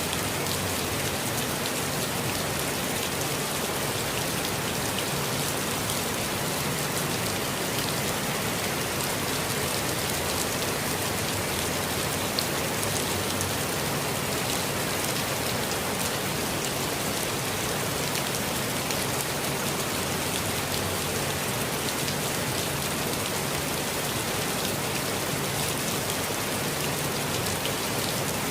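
Steady rain falling, a dense even hiss of many drops with fine individual drop ticks, constant in level throughout.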